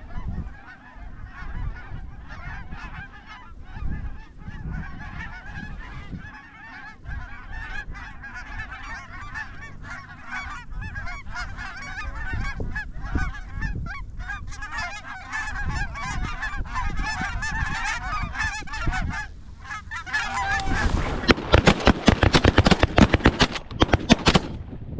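A large flock of geese honking, dense overlapping calls. About twenty seconds in, a rapid string of loud sharp cracks breaks out and runs on through the end while the calling continues.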